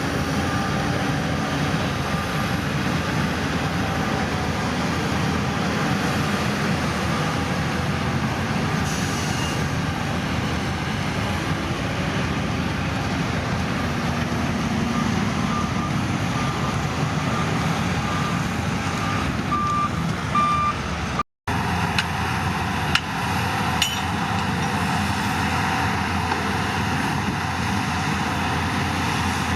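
Heavy diesel construction machinery running steadily, with a reversing alarm beeping at times. The sound drops out briefly about two-thirds through, and afterwards the engine noise continues with a few sharp knocks.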